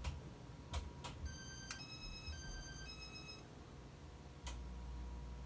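Ceiling fan control beeper sounding a short run of electronic beeps at a few different pitches, among several sharp clicks. Near the end a low hum starts up.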